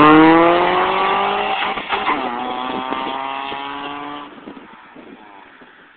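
2001 Honda Accord accelerating hard away, its engine revving up in pitch, dropping at a gear change about two seconds in, then climbing again while fading into the distance until it is barely heard by about four seconds in.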